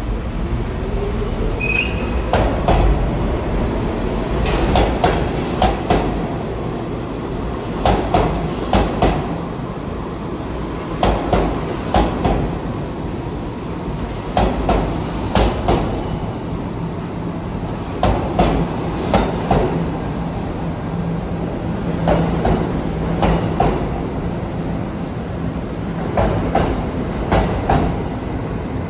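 New York City subway train running through the station, its wheels clacking over rail joints in pairs about every three seconds above a steady rumble.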